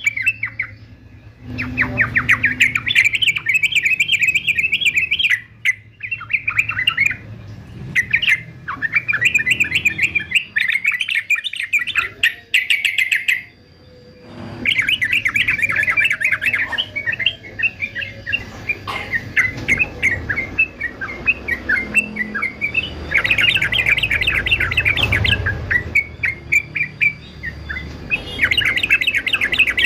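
Male yellow-vented bulbul (trucukan) singing in bursts of rapid, bubbling chatter, with short pauses between phrases.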